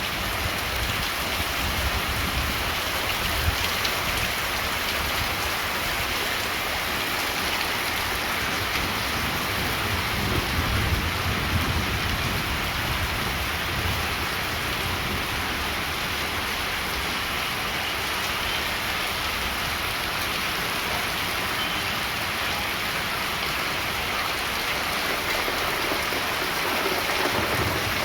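Monsoon rain falling steadily and densely, with a low rumbling that swells and fades underneath.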